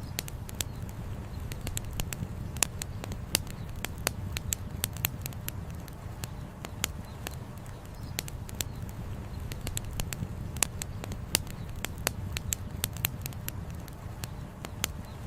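Campfire crackling as the firewood burns, with frequent sharp pops at irregular intervals, some much louder than the rest, over a steady low rumble of flowing river water.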